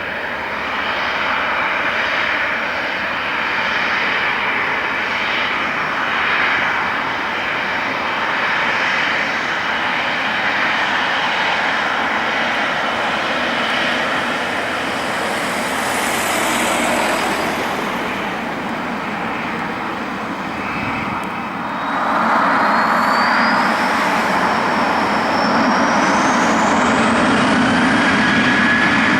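Boeing 737-800's CFM56 turbofan engines running, a steady loud rushing roar. About two-thirds of the way through the noise grows louder and a high whine rises in pitch.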